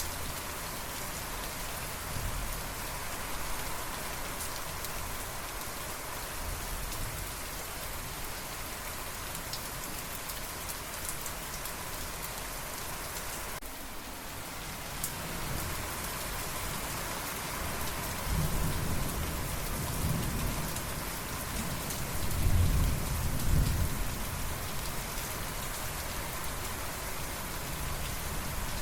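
Steady rain falling, with thunder rolling in low rumbles in the second half, loudest about two-thirds of the way through.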